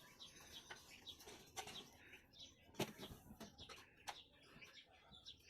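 Faint bird chirping against a quiet background, with a sharp click a little before the middle and another about a second later.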